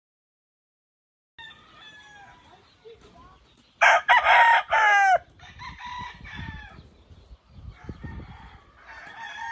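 Rooster crowing loudly about four seconds in, amid other chickens clucking and calling that start about a second and a half in.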